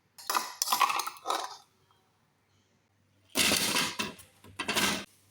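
Clattering handling noise in two bursts, the second one louder, like dishes or utensils being moved about.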